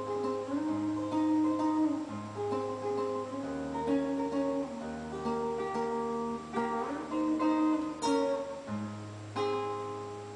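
Classical guitar played solo: a fingerpicked melody over held bass notes, with a strummed chord about eight seconds in. A final chord about nine seconds in rings on and fades.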